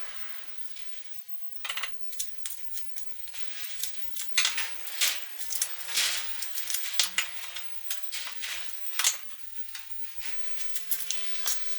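Hand tools clicking and clinking against metal, a quick irregular run of light taps.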